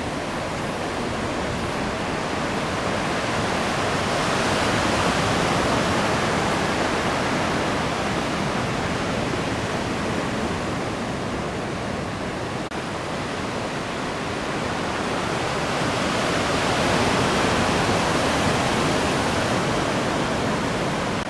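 Heavy surf from a typhoon swell: a steady rush of breaking waves that swells louder twice, about a quarter of the way in and again past the middle, then eases.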